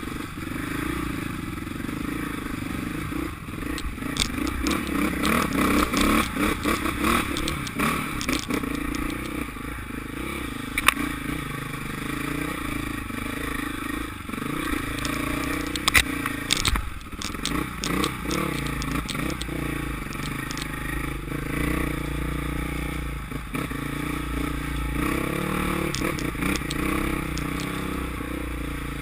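Motocross bike engines running and revving, their pitch rising and falling. Two sharp knocks stand out, one about eleven seconds in and one about sixteen.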